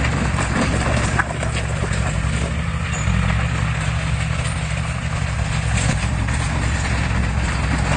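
Heavy diesel engine of earthmoving equipment running steadily under load, with a single short click about a second in.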